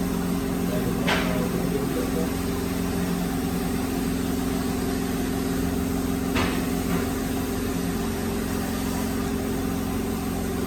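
Multi-spindle woodworking machine loaded with wooden legs running with a steady hum, with two sharp knocks, about a second in and about six seconds in. The machine shakes and vibrates heavily while running, a sign that the legs' mountings need tightening.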